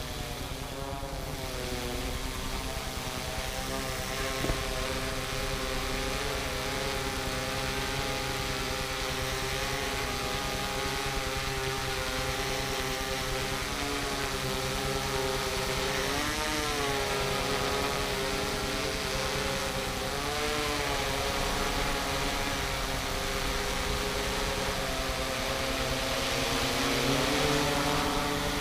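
Quadcopter drone's propellers humming steadily in flight. The pitch of the hum dips and recovers briefly about sixteen and again about twenty seconds in as it manoeuvres.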